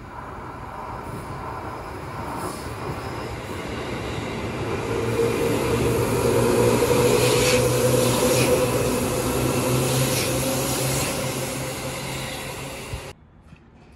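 Yellow Seibu 2000 series electric commuter train running past and under the listener: a rumble and steady motor hum that build as it approaches, peak as it passes beneath, with a couple of sharp clicks along the way. The sound cuts off abruptly about thirteen seconds in.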